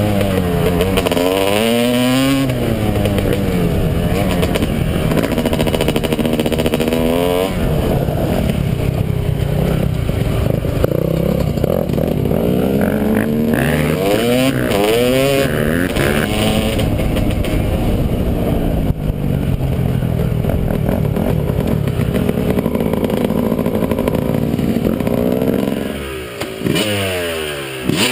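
Yamaha 250 motocross dirt bike engine being ridden hard, its pitch repeatedly rising and falling as it revs up through the gears and backs off. Near the end the throttle is shut briefly, the engine drops away, then revs back up.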